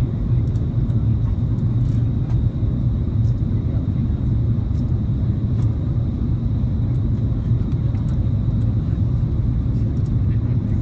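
Steady low rumble of an Airbus A330-300's engines and airflow heard inside the passenger cabin, with faint scattered clicks.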